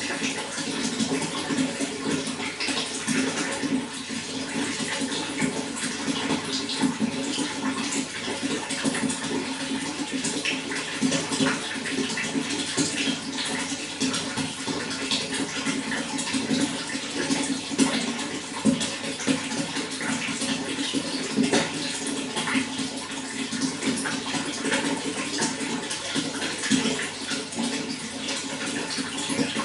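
Running water flowing steadily, with a constant rush and many small splashes and gurgles.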